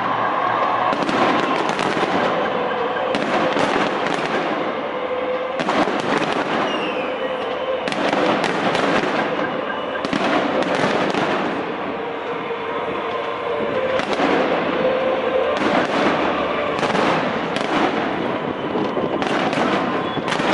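Fireworks display: aerial shells bursting one after another, a fresh burst every second or two, over continuous crackle.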